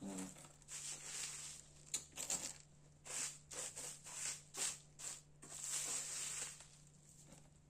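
Packaging being handled and unwrapped: a series of short rustles and scrapes, about ten, some quick and close together, with pauses between them.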